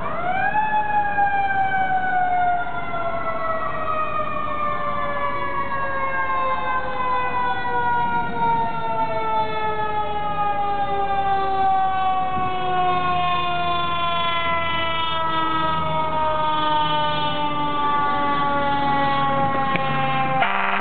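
Fire truck's mechanical siren spinning up to a high wail in the first second, then slowly winding down in pitch through the rest. A second siren tone rises about three seconds in and then falls alongside it, over a low steady engine hum.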